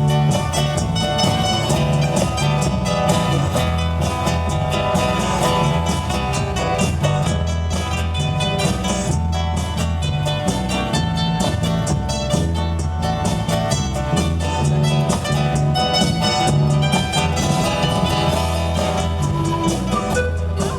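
A live band playing outdoors, with guitar, a bass line and a drum kit keeping a steady beat.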